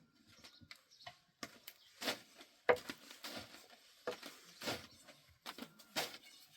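A series of irregular knocks and taps, about ten in six seconds, with the sharpest one near the middle.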